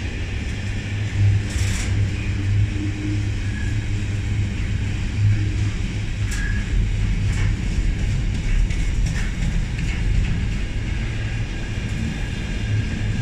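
Container wagons of a Freightliner intermodal freight train running past, with a steady low rumble of wheels on rail and a few sharp clicks.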